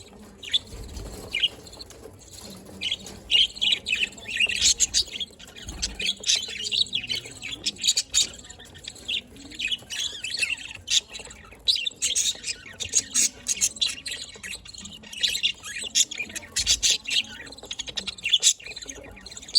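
Pet budgerigars chattering: many short, high chirps and squawks in quick overlapping flurries.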